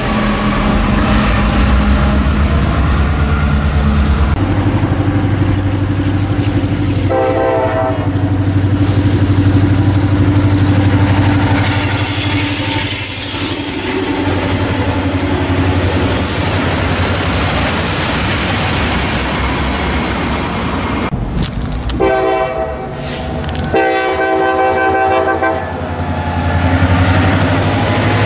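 Diesel freight trains passing: locomotive engines running and freight cars rolling by. A locomotive air horn sounds briefly about seven seconds in, then twice more near the end, each of the last two blasts lasting almost two seconds.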